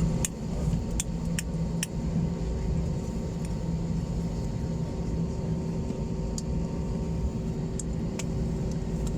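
Steady low rumble and hum of an airliner cabin, jet engines running as the plane taxis before takeoff. A few light clicks come in the first two seconds, then a couple more near the end.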